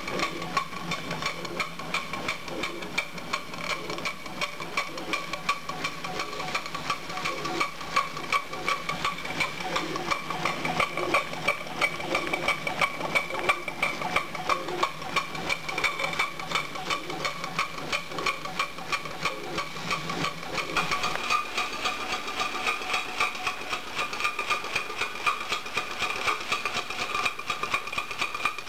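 Markie live-steam model road locomotive's engine running, with a fast, even beat of exhaust and mechanism clicks over a steady steam hiss. A low hum underneath drops out about three quarters of the way through.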